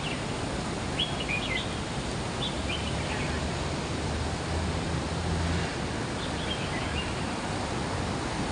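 Steady outdoor park din with short, high bird chirps several times, and a low hum for a couple of seconds around the middle.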